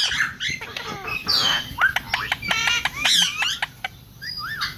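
Parrots chattering: a quick run of chirps, rising and falling whistled calls and short squawks, easing off briefly about four seconds in.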